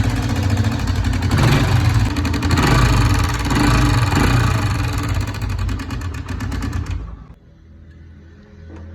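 Motorcycle engine running and being revved, its loudness rising and falling, the engine the owner is checking for an unusual noise. The loud running cuts off abruptly about seven seconds in, leaving a quieter steady low hum.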